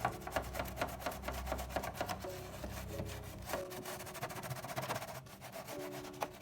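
Rapid, irregular hand scrubbing strokes, typical of cleaning a fridge, over soft background music.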